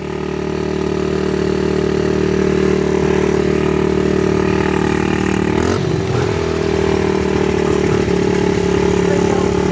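Small off-road engine, an ATV or dirt bike, idling steadily, with a brief wavering change in pitch about six seconds in.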